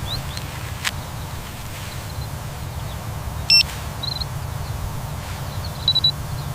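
Steady outdoor ambience: an even hiss with a low rumble, a few faint short high chirps, a click about a second in, and a brief high beep-like tone about halfway through, which is the loudest moment.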